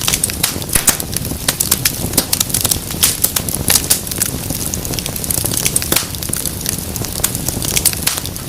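Wood fire crackling in a fireplace: frequent sharp pops and snaps at irregular intervals over a steady low rumble of burning.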